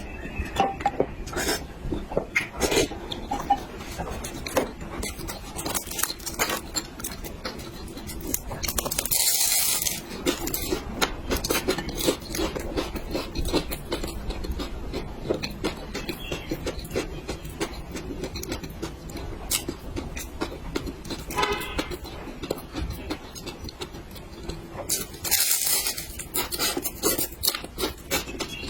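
Close-up eating sounds: utensils clicking and clinking against dishes, with chewing. There are two longer stretches of hissy noise, about nine seconds in and again near the end.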